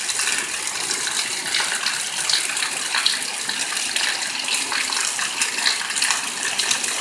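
Heavy rain falling steadily: an even, dense hiss of drops with fine crackling patter throughout.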